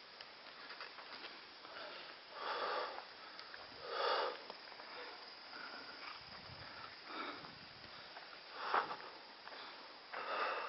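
A person sniffing and breathing close to the microphone: about five short, noisy breaths spaced irregularly.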